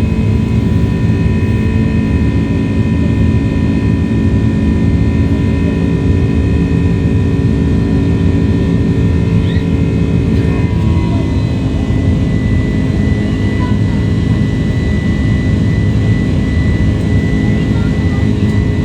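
Jet airliner engine noise: a steady, loud rush with several humming tones over it. About eleven seconds in the tones drop away and change.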